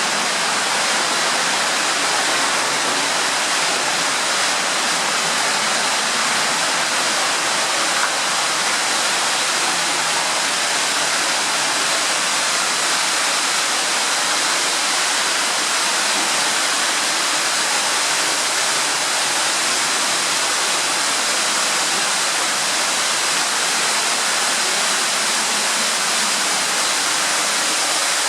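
Steady, unbroken rushing of an underground waterfall heard along a water tunnel.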